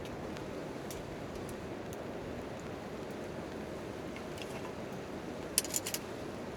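Rain falling steadily on a tent tarp, with a campfire crackling: scattered small pops, and a quick run of louder crackles near the end.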